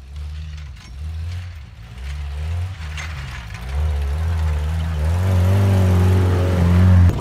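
Jeep engine revving in repeated surges as it climbs a snowy trail, growing louder as it approaches and passes close by. The sound cuts off suddenly near the end.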